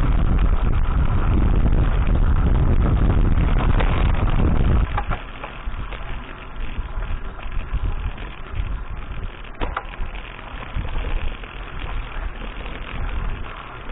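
Wind buffeting an action camera's microphone while mountain biking, a heavy low rumble that drops off suddenly about five seconds in. After that comes a quieter fluttering rumble of the ride, with a couple of sharp knocks.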